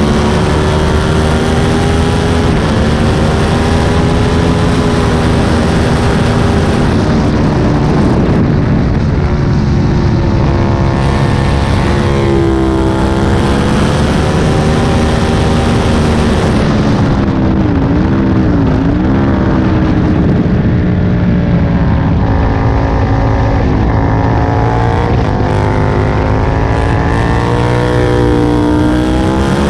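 Aprilia Tuono 1000's V-twin engine running hard on track, its pitch climbing and falling as the bike speeds up and slows for corners. Twice, near the middle, the pitch drops sharply and climbs back.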